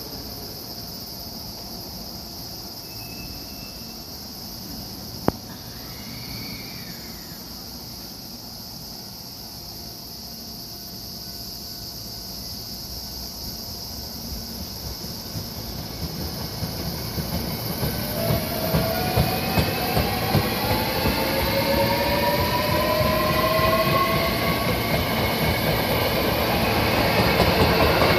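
Electric train drawing closer. Wheels clack in a steady rhythm and grow steadily louder through the second half, and from about two-thirds in a motor whine rises in pitch. A single sharp click sounds early on.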